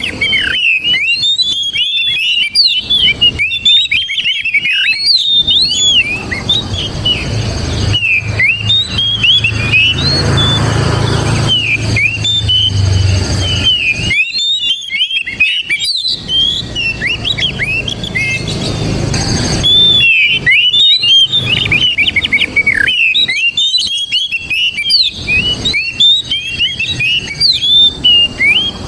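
Oriental magpie-robin singing a fast, near-continuous string of sweeping whistled notes and chirps, with a brief lull about halfway through.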